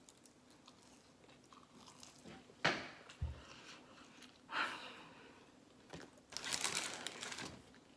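Close-up biting and chewing of a fried chicken sandwich: short crunches about a third of the way in and near the middle, and a longer crunching spell near the end.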